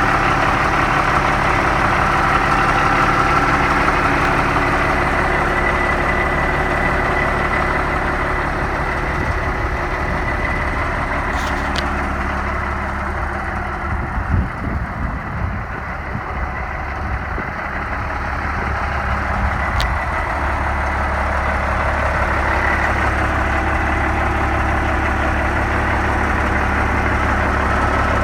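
1990 International 4900 dump truck's diesel engine idling steadily, a little quieter for a few seconds in the middle.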